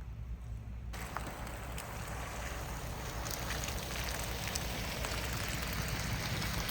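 Steady road noise of a vehicle under way: a low rumble with a hiss over it that comes in about a second in and grows slightly louder.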